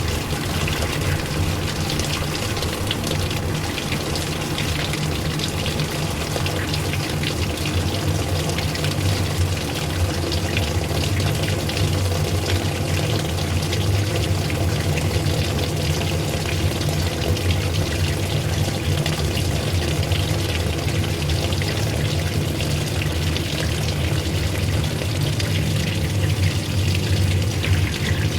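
Old-style washing machine running: a steady motor hum under the constant rush and churn of water.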